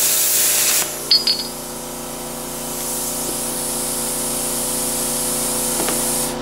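Plasma cutter hissing with its compressed air. The hiss drops about a second in, with a couple of sharp clicks, then builds again and cuts off suddenly near the end, over a steady machine hum.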